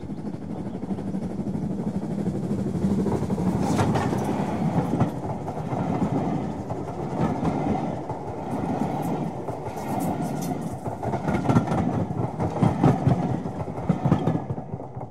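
A train passing close by: a steady rumble with the irregular clatter of wheels over rail joints, loudest near the end.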